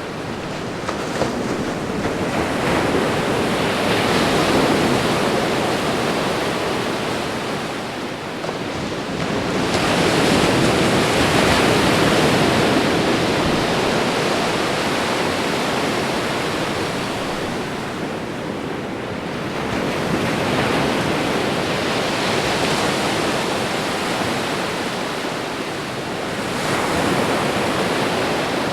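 Ocean surf: waves breaking on a shore, the wash swelling and ebbing in surges roughly seven to nine seconds apart, about four in all.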